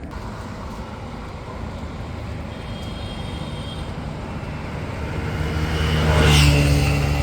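A motor vehicle's engine drawing close and passing over a steady low road rumble, its hum growing louder from about five seconds in and peaking near the end.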